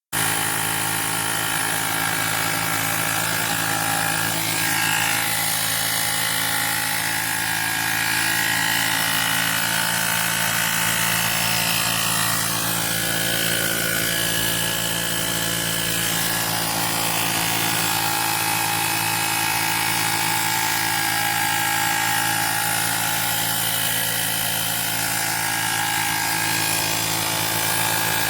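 Woowind AP2-P cordless electric tyre inflator running steadily as it pumps up a car tyre, a constant motor-and-compressor drone.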